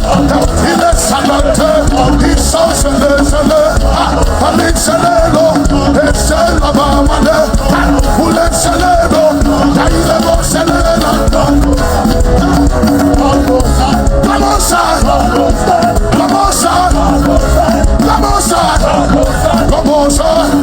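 Live praise band playing a loud, upbeat worship song with a steady beat, with voices singing along in the mix.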